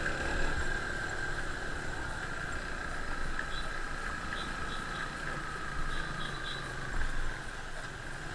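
Yamaha FZ-S single-cylinder motorcycle engine running while riding, a steady low hum with a thin, steady high whine over it.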